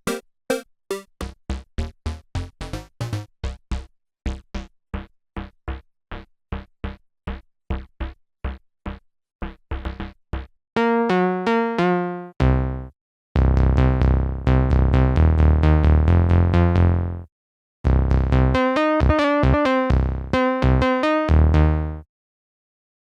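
Dreadbox Artemis synthesizer playing a sequenced pattern of short, plucked-sounding notes at about four a second. After about ten seconds it moves to denser, held notes with a deep bass underneath, then stops near the end.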